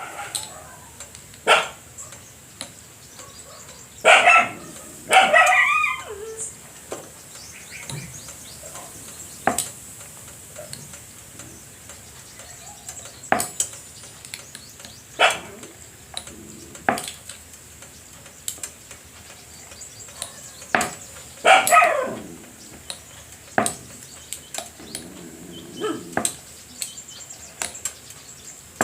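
Scattered light clinks and taps of a steel plate and utensils as cut dough pieces for kapnya are tossed and handled. Short loud calls break in twice, about four seconds in and again a little past twenty seconds.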